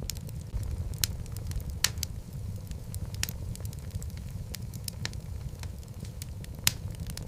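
Wood logs burning in a fireplace: a steady low rumble of the flames with irregular sharp crackles and pops, a few louder snaps among them.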